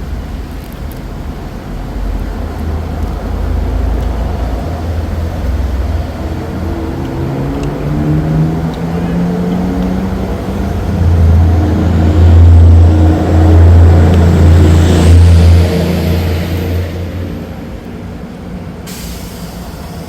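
A heavy road vehicle's engine running close by, its pitch rising as it pulls away, loudest about twelve to fifteen seconds in. A short hiss comes near the end.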